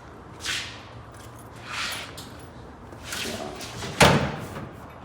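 A few short scraping swishes, then one sharp, loud bang about four seconds in, like a slam.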